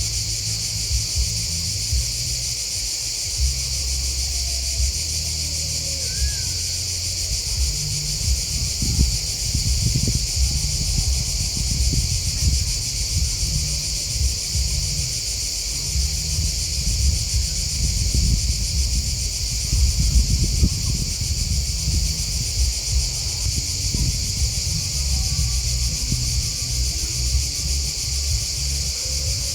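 Steady, high-pitched chorus of chirping grasshoppers and crickets, with an uneven low rumble underneath that is heaviest in the middle stretch.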